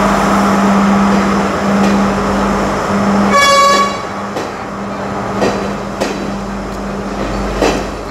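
Sri Lanka Railways S12 diesel multiple unit running past, with a steady engine hum and loud rumble in the first half. A short horn toot comes about three seconds in. After that the sound drops, leaving the carriages rolling by with a few sharp wheel clacks over rail joints.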